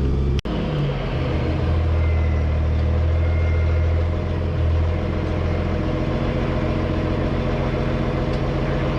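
Heavy diesel engine running steadily. About half a second in, the sound drops out for an instant at an edit and comes back as a steady engine at a somewhat higher pitch.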